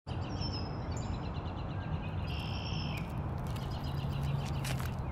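Small birds chirping and trilling in a quick repeated series, over a steady low background noise, with a few faint clicks near the end.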